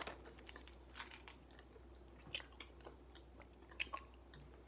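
Faint chewing of a fruity candy, with scattered small clicks of the mouth and teeth.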